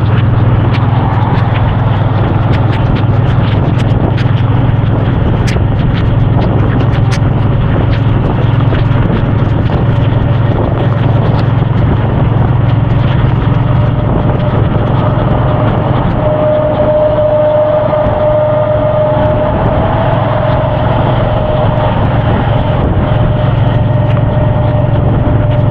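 Suzuki Boulevard C50's V-twin engine running steadily at cruising speed under loud wind and road rush, with scattered sharp ticks over it. A steady whine joins about two-thirds of the way in.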